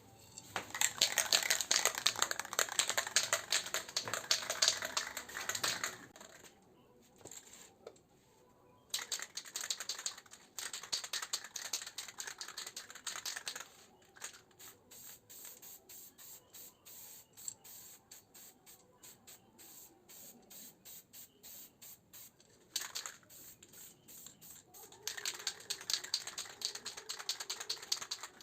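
Aerosol can of heat-resistant spray paint spraying, hissing in long bursts of several seconds. In the middle it gives a run of short, quick spurts, about two a second.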